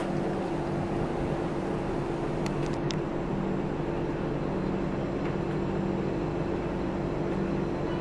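Steady mechanical drone of a diesel passenger train standing or barely moving, heard from on board: a constant hum with no wheel clatter. A few faint clicks come about three seconds in.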